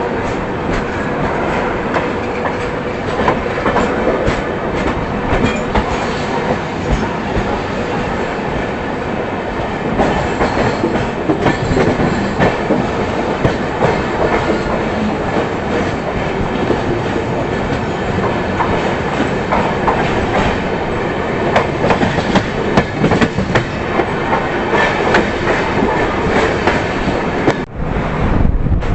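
Moving passenger train: a steady, loud rumble with the wheels clattering over the rail joints, the noise dipping briefly near the end.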